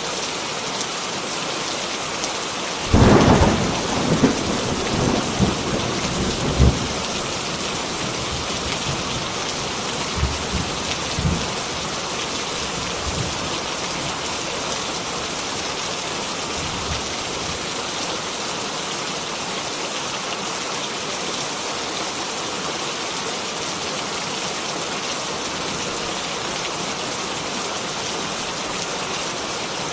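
Heavy rain falling steadily. About three seconds in a clap of thunder breaks out and rumbles on for several seconds, with a few fainter rumbles around ten seconds in.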